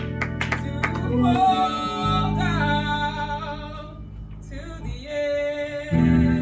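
Church singing with instrumental accompaniment, with sharp rhythmic percussive hits during the first second.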